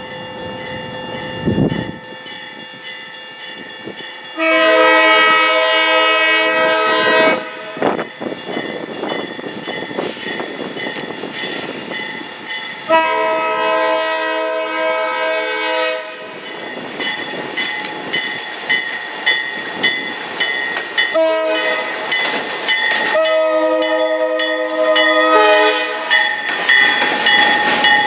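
Locomotive air horn on the ex-D&H RS-11 sounding the grade-crossing signal: two long blasts, a short one and a final long one, each a steady multi-note chord. Between the blasts the train's running noise and rail clicks go on.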